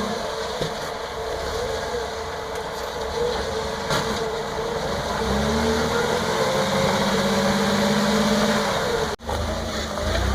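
Off-road Jeep engine running under load while crawling, its pitch rising and falling as the throttle is worked. It climbs and holds higher from about halfway through. The sound cuts out for an instant near the end.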